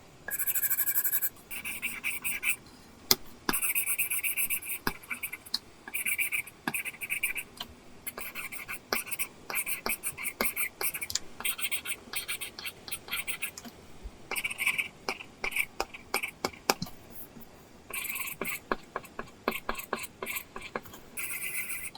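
Apple Pencil tip scratching across a paper-texture screen film on an iPad, a dry scratchy sound in strokes of varying length with short pauses, mixed with light taps of the pencil on the screen.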